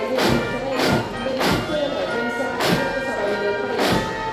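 Military marching band playing a march: brass holding sustained notes, with the bass drum and cymbals striking together on the beat, about every 0.6 s.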